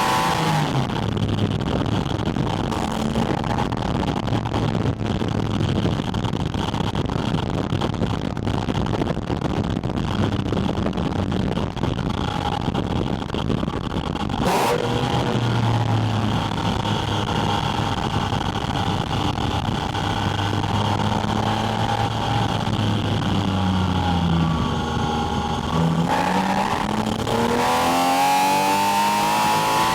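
Porsche 718 Spyder RS's naturally aspirated flat-six, heard at its air intake: revs fall away at the start, then it cruises at low revs under heavy wind noise, with one sharp knock about halfway. Near the end the revs dip and then climb again as the car accelerates.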